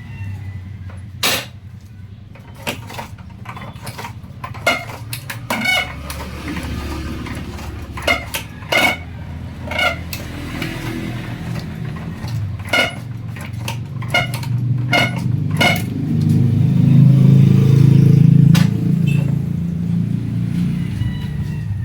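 Repeated sharp metallic clinks and taps, as of metal tools and parts being handled, over a low rumble that grows louder for a few seconds past the middle.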